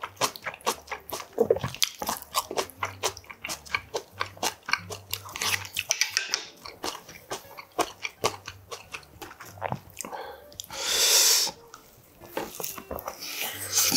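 Close-miked eating of budae bokkeum and rice: rapid wet chewing and biting, with mouth clicks and smacks. Near the end there is a loud rush of breath-like noise lasting about a second.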